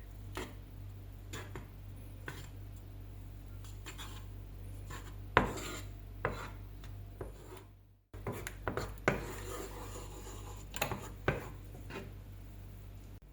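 Kitchen utensils scraping and tapping against a pot or pan, with scattered knocks (one sharper knock about five seconds in), over a steady low hum.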